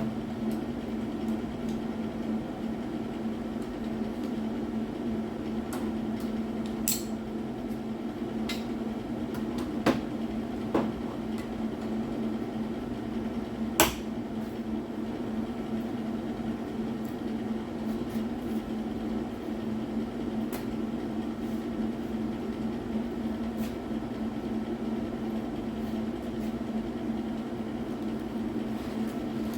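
A steady low machine hum, with a few sharp metallic taps and knocks scattered through it; the loudest knock comes about halfway through.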